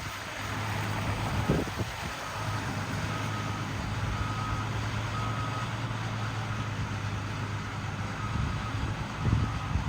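A truck's reversing alarm beeping about once a second over the steady hum of its engine. The beeps swell and fade as the truck moves.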